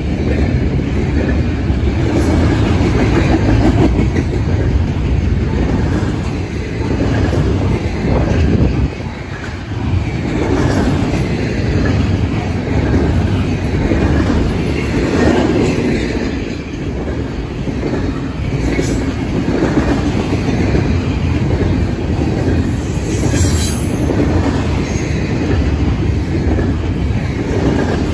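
Double-stack intermodal freight cars rolling past: a steady, loud rumble of steel wheels on rail with a rhythmic clickety-clack over the rail joints. There is a brief high-pitched wheel squeal about two-thirds of the way through.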